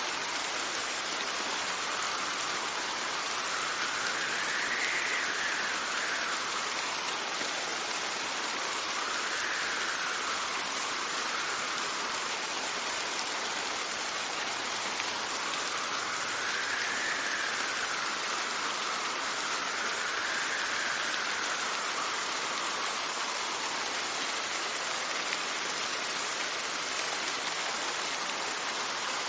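Steady rain hissing, with wind gusting over it: a whistling tone rises and falls in pitch four times, slowly.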